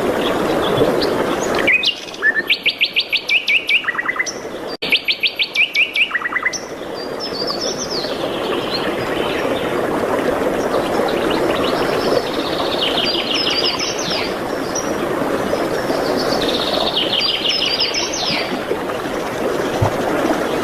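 Songbirds singing over a steady rushing background: four trills of rapid, evenly repeated high notes, the first two loud and close together in the first seven seconds, two softer ones later, with scattered chirps between.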